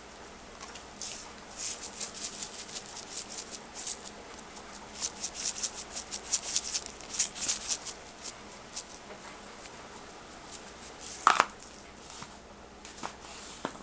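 Adobo seasoning shaken from a shaker container over raw chicken wings: bursts of quick, light, hissy rattling in the first two thirds, then one sharper knock of a container about eleven seconds in.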